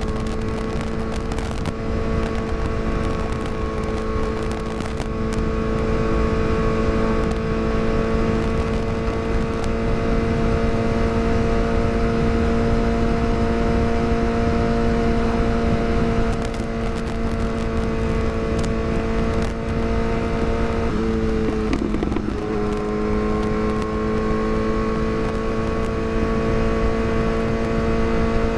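Yamaha R6 inline-four sport-bike engine running at steady high revs while riding, with a low rush underneath. About three-quarters of the way through the engine note wavers and dips briefly, then settles back to a steady pitch.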